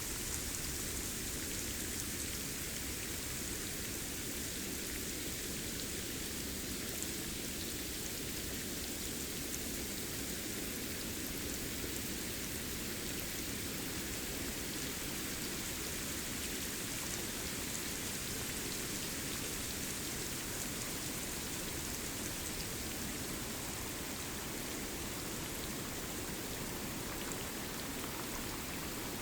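Steady rain falling on forest foliage, an even hiss with faint drop ticks throughout.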